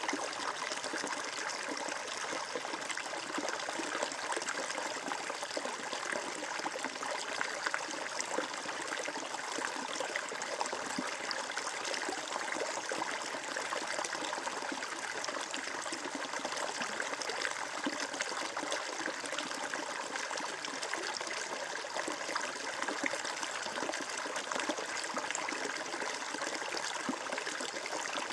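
Water flowing steadily over stones in a stream, an unbroken trickling and splashing rush with no pauses.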